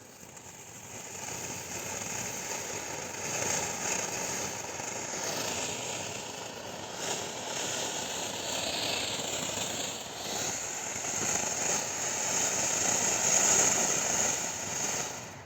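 Multicolour dragon firework fountain burning: a steady hissing rush of sparks that swells and eases, then dies away near the end as the fountain burns out.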